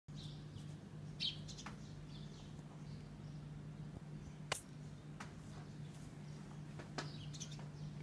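A small bird chirping in short, high, scattered calls, over a steady low hum. Two sharp taps, about halfway and near the end, are the loudest sounds.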